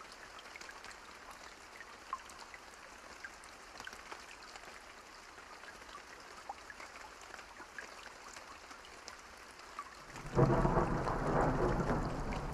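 Steady rain falling, with scattered individual drop hits, then about ten seconds in a loud rumble of thunder breaks in and keeps rolling.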